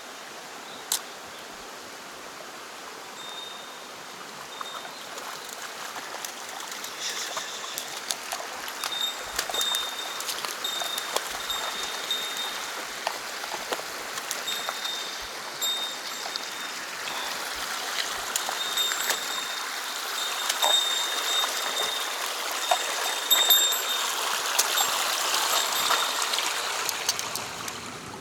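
Small mountain stream running over rocks, a steady rush of water that swells louder through the second half. A thin, high, steady tone cuts in and out over it, with scattered small clicks.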